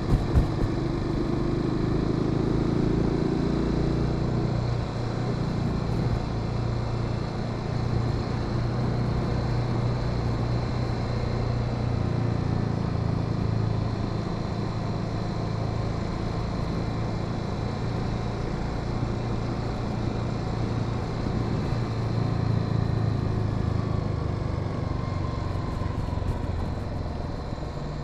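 Honda Sahara 300's single-cylinder engine running under way, over wind and road noise. The engine note is higher for the first few seconds, then drops and holds steady from about four seconds in.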